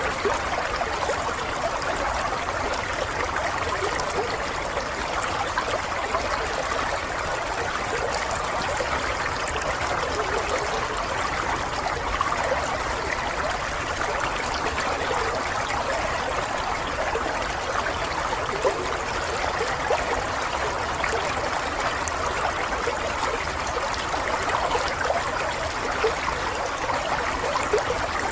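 Running water babbling and trickling steadily, as of a small stream, with a faint low rumble underneath.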